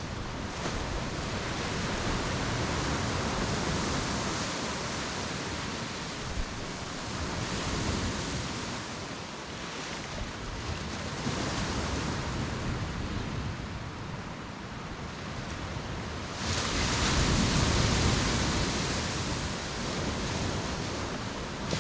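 Ocean waves breaking and washing up the beach, the surf swelling and ebbing every few seconds. A bigger wave crashes suddenly about three-quarters of the way through.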